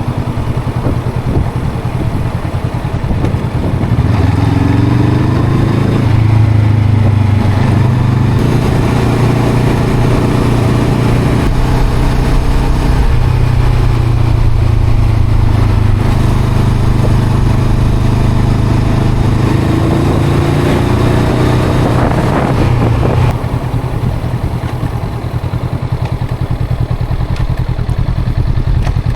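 Honda CL500's parallel-twin engine and exhaust under way: the engine pulls harder about four seconds in, revving up and shifting up a couple of times. It cruises steadily, picks up briefly, then eases off about 23 seconds in.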